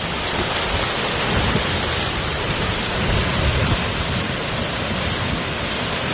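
Steady rush of water without letup, with a low rumble beneath it.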